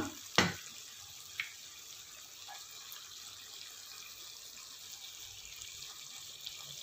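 Chicken and curry leaves frying in oil in a pan, a steady soft sizzle, with a single knock about half a second in.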